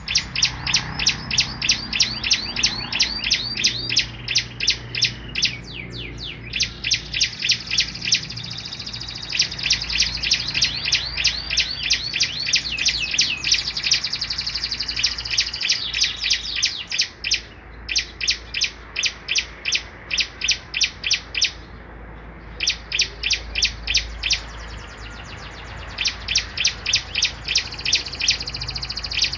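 Small songbirds singing a duet: long runs of sharp, high chirps repeated about four a second, broken by a few short pauses, the longest about two-thirds of the way through.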